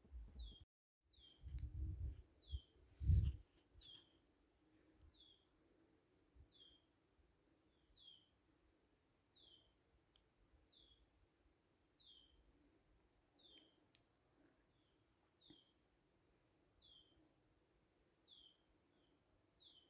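A bird repeating a high two-note call over and over, a short steady note followed by a falling one, about every second and a half. Early on, a few low thuds break in, the loudest about three seconds in, and the sound cuts out completely for a moment just under a second in.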